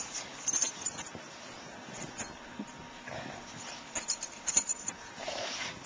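Dogs moving about in deep snow, with two short, soft dog whines about three and five seconds in over scattered crackling and clicking.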